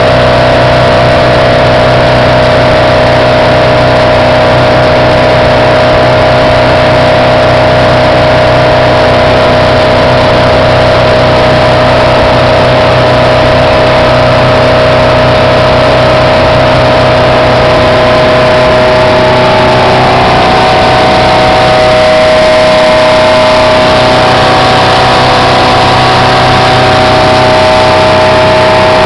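Speedboat engine running steadily at speed, loud and close, over a rushing noise; its pitch shifts slightly about twenty seconds in.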